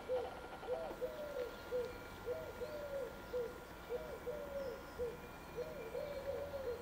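A bird calling: a quick, uneven series of short rising-and-falling notes, several a second.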